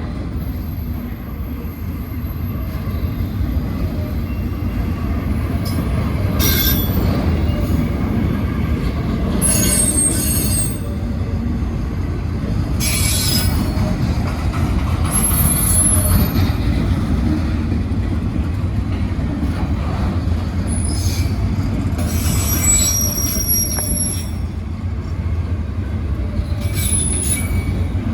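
Freight train rolling past: a steady rumble of cars on the rails, with repeated high-pitched wheel squeals and sharp screeches every few seconds.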